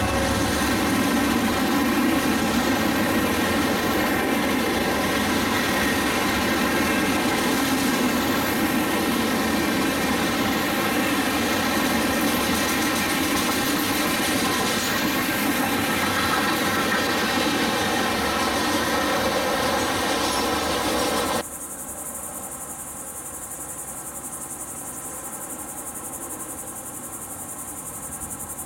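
Freight cars of a long CSX mixed freight train rolling past close by, a steady rumble and clatter of wheels on rail. About three-quarters of the way through it cuts abruptly to a much quieter scene with a steady insect drone.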